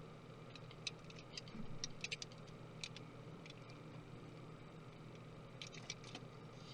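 Faint small clicks and taps of hand tools and small parts on a MacBook Pro laptop being taken apart, coming in two clusters over a low steady hum.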